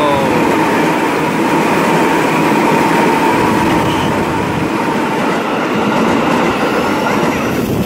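Electric commuter train passing close by: a loud steady rush of wheels on rails with a thin steady whine over it, the noise dropping off sharply at the very end.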